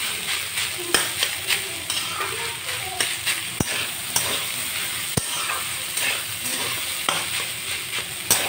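Leftover rice stir-frying in a metal kadai: a steady sizzle, with the spatula scraping and knocking against the pan at irregular moments as the rice is turned.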